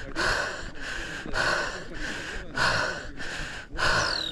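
A runner's hard, rhythmic breathing on a steep uphill, quick in-and-out breaths at about one and a half per second, alternately stronger and weaker. A brief falling whistle sounds near the end.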